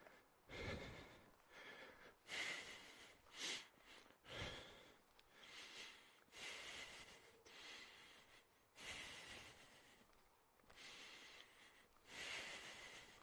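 Faint, heavy breathing of a hiker climbing a steep trail, with a rushing breath about every second and a few low thumps.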